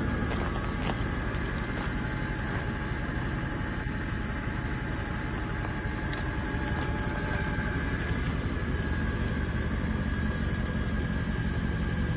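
Mercedes-Benz C63 AMG's 6.2-litre V8 idling steadily.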